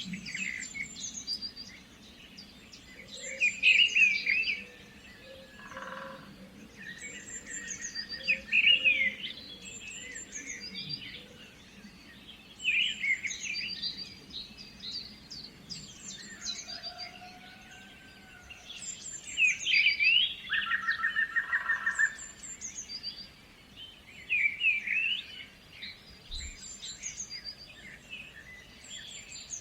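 Songbirds singing: short chirping phrases that come every few seconds, with a quick trill about two-thirds of the way through, over a faint steady low hum.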